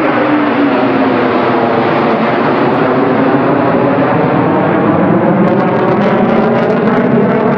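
F-15 fighter jet's engines running loud, a steady jet roar with a whine that slowly falls in pitch; it cuts off suddenly at the end.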